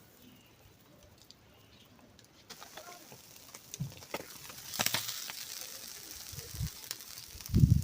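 Wood fire crackling, with scattered pops and faint bird chirps, from about two and a half seconds in. Several low thumps follow, the loudest near the end.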